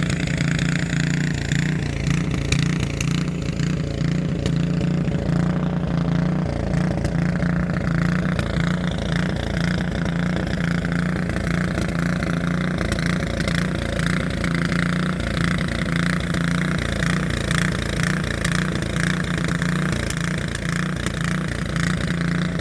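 A vehicle engine idling steadily under a low, even rumble.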